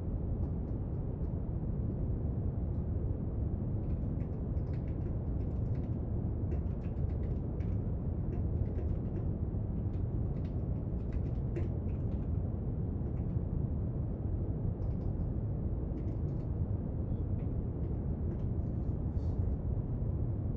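Steady brown noise, a deep even hiss, with faint irregular clicks and taps of desk study work from about four seconds in.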